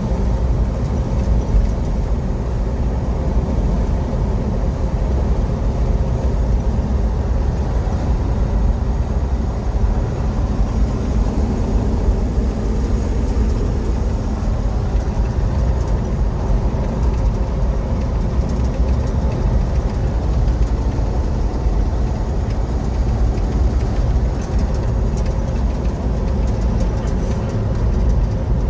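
Truck running down the road, a steady low rumble of engine and road noise that holds unchanged throughout.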